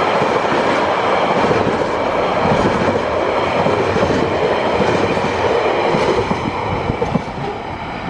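Tasrail freight train of empty log-container wagons rolling past, a steady rumble and clatter of steel wheels on the rails. It eases off a little over the last couple of seconds.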